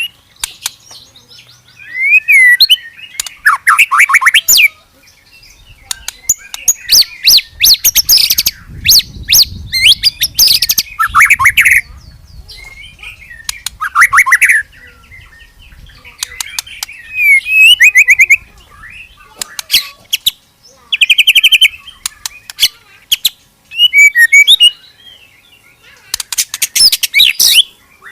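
A murai songbird (Copsychus, magpie-robin/shama) singing loud, varied song in bouts: sweeping whistled notes and rapid-fire rattling bursts, the 'shooting' notes, broken by short pauses.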